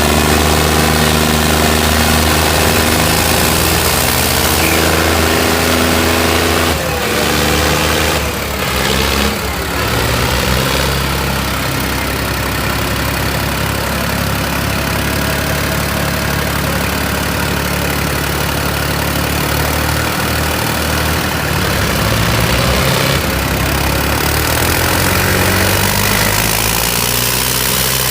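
Diesel tractor engines running hard under load in a tractor tug-of-war, their note shifting about seven seconds in. A few short knocks come between about seven and ten seconds in.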